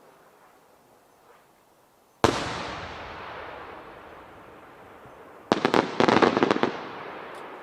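Aerial firework shells: one sharp bang about two seconds in that echoes away slowly, then a quick run of several loud cracks a few seconds later.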